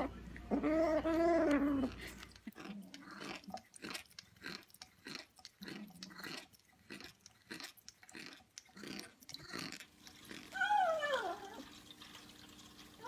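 A cat gives a drawn-out yowl, then chews with a run of irregular clicking crunches for several seconds, and near the end lets out a short, falling meow.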